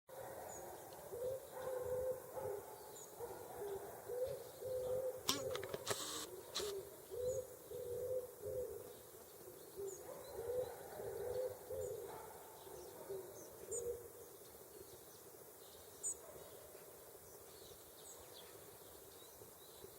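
A wild dove cooing: repeated low coo notes in short phrases that stop about two-thirds of the way through. Faint high chirps of small birds and a few sharp clicks near the middle sound alongside.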